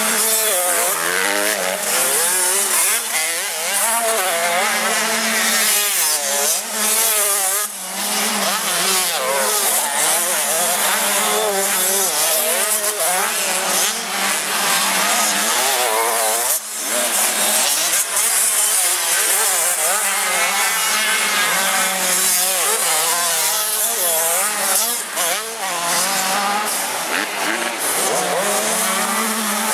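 Several 85 cc two-stroke motocross bikes racing, their engines revving up and down over and over in overlapping, rising and falling whines.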